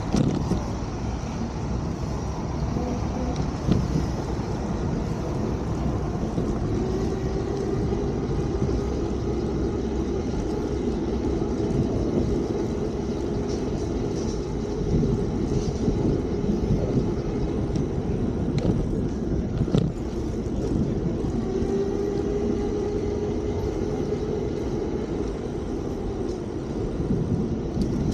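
Steady low rumble of wind and tyre noise while riding a Fiido D3 Pro electric bike along a street, with a steady hum that comes in for several seconds twice and a few light knocks.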